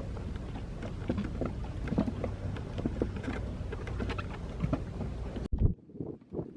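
Steady low wind rumble on the microphone with scattered light knocks and rustles as lines are handled and stowed on deck. It cuts off suddenly about five and a half seconds in, leaving only faint small sounds.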